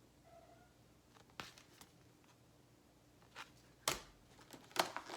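Plastic packaging handled while an action figure and its parts are taken out: a few scattered clicks and taps, a sharper knock about four seconds in, and crinkling plastic starting near the end.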